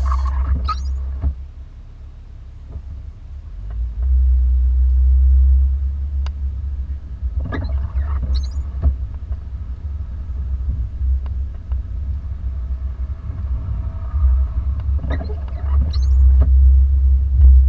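Car driving through snow, heard from inside the vehicle: a loud, uneven low rumble that swells and fades, with a few brief squeaks about a second in, around eight seconds and near the end.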